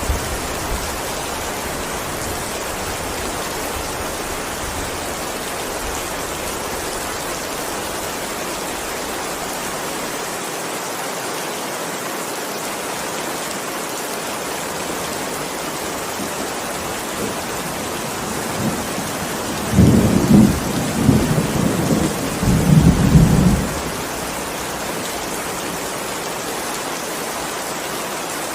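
Steady heavy rainfall, with a peal of thunder rumbling in two surges about two-thirds of the way through.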